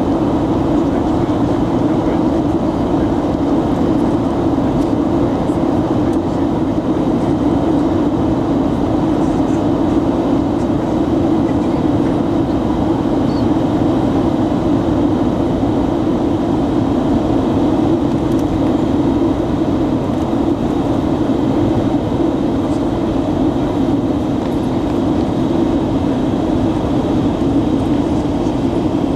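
Jet airliner cabin noise in flight: a loud, even drone of engines and airflow that holds steady without change.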